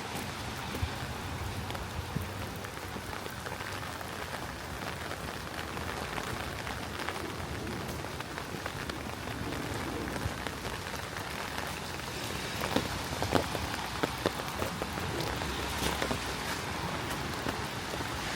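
Steady rain falling and pattering on surfaces, with scattered sharper drip taps that bunch together about two-thirds of the way through.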